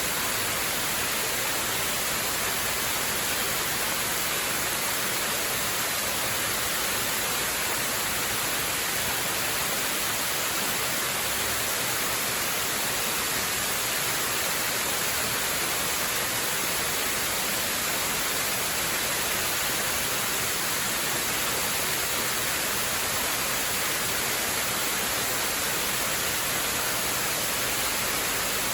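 Waterfall: a steady, even rush of falling water, brightest in the hiss, with no change in level.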